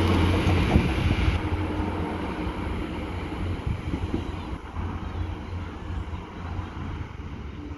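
Diesel train moving away, its low engine drone fading steadily; the higher rushing noise drops off about a second and a half in.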